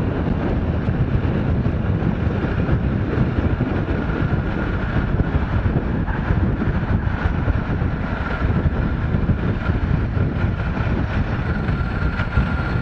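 Motorcycle running under way, its engine noise mixed with steady wind rush on a helmet-mounted microphone.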